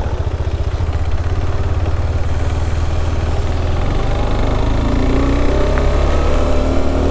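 KTM 390 Adventure's single-cylinder engine running steadily under a haze of wind noise. About four seconds in, its pitch starts to rise slowly as it accelerates.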